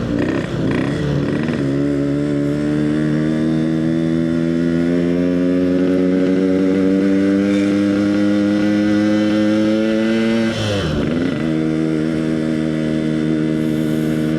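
Yamaha RX King two-stroke single-cylinder motorcycle engine under way. Its note climbs slowly as it pulls, drops sharply for a moment about ten and a half seconds in, then holds a steady pitch.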